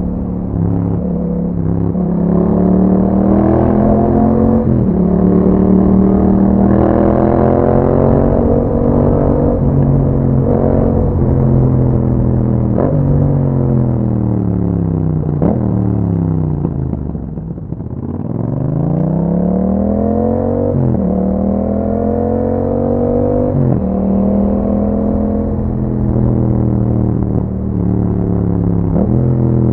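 2021 Yamaha MT-07's parallel-twin engine through an Akrapovič exhaust, accelerating through the gears with the pitch dropping sharply at each upshift. About halfway through, the revs fall away as the bike slows almost to idle, then it pulls away and climbs through the gears again.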